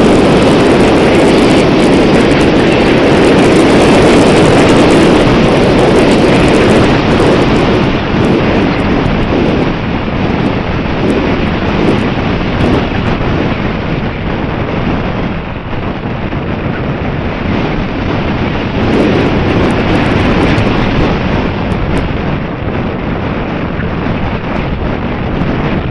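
Strong wind buffeting the microphone: a loud, unpitched rushing that swells and eases, heaviest in the first seven seconds or so and again around twenty seconds in.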